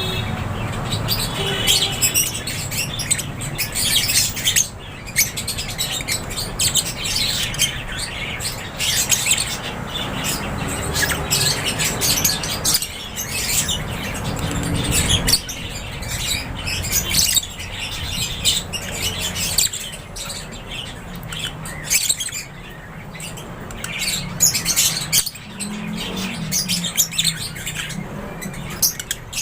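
A flock of lovebirds chirping and squawking without a break, many high-pitched calls overlapping, over a low rumble.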